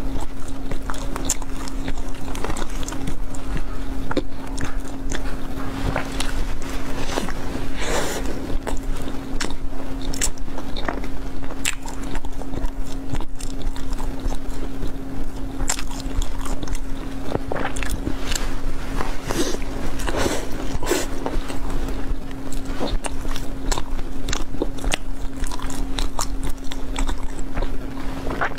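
Close-miked biting and chewing of a bread roll, a steady run of irregular crackly mouth clicks. A steady low hum runs underneath.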